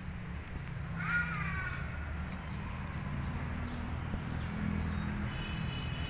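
Small birds chirping: short, high, falling chirps repeating about every three-quarters of a second, with a louder falling call about a second in, over a low steady rumble.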